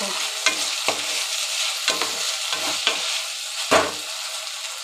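Potato and brinjal strips sizzling in mustard oil in a steel kadhai, with a spatula stirring and scraping against the pan several times.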